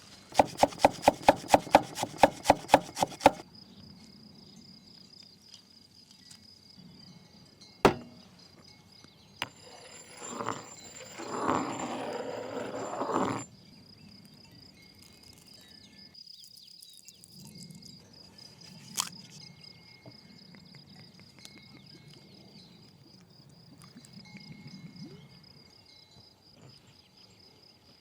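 Steady high-pitched insect trill, cricket-like, running under everything. Over it come a fast run of about a dozen sharp knocks at the start, a single knock a little later, and a few seconds of rustling and clatter around the middle.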